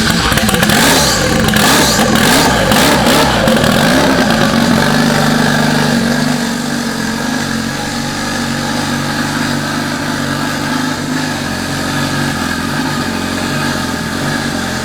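Honda Integra's B-series four-cylinder engine running just after being started, its speed wavering for the first few seconds and then settling to a steady idle.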